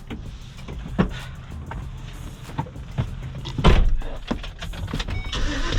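Vehicle doors shutting: several thumps, the loudest a little past halfway, over a low steady rumble.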